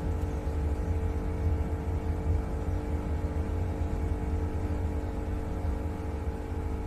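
A Vande Bharat Express electric trainset heard from inside its driver's cab as it rolls slowly: a steady low rumble with a constant electrical hum over it.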